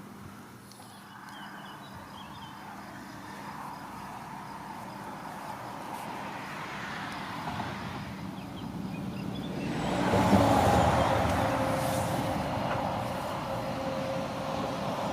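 A train approaching and passing close, growing steadily louder over about ten seconds, then staying loud with a steady hum.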